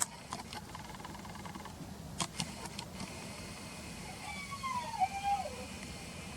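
A few short sharp clicks, then a distant siren-like wavering tone that slides down in pitch from about four seconds in.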